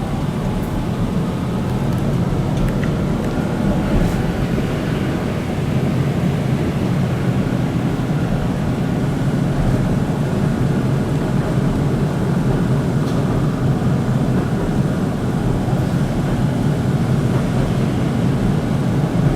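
Keihan Keishin Line train running, a steady rumble of wheels and car body heard from on board, with a faint rising whine in the first few seconds as it gathers speed.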